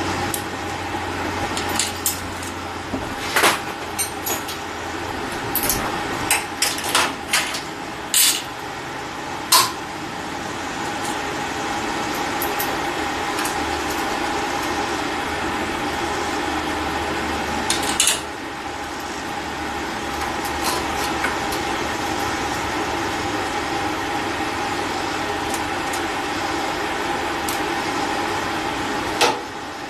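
Hand tools clicking and clinking against metal as the float bowl bolts on a Holley Dominator carburetor are snugged down. The clicks come in a cluster over the first several seconds, then only twice more, over a steady background hum.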